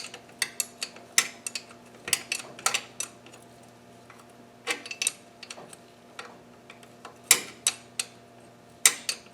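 Irregular metallic clinks and clicks of hand tools and small engine parts being handled, coming in short clusters, over a faint steady hum.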